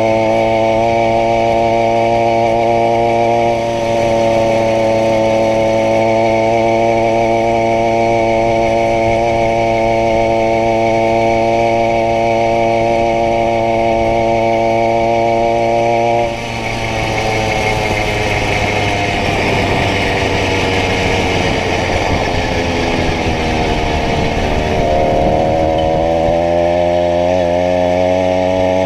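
80cc two-stroke bicycle engine running at a steady speed; about sixteen seconds in its pitch shifts, sags and climbs again, then settles back to a steady run.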